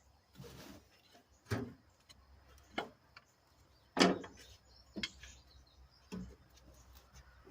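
Irregular metallic clanks and knocks of hand tools on engine parts while a stuck bolt is worked to break it loose, about six in all, the loudest about four seconds in, with a short scrape near the start.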